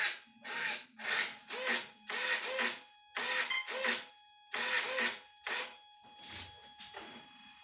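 Repeated rasping hand strokes, about two a second and unevenly spaced, as of sanding or filing on a workpiece, with a faint steady electrical hum beneath.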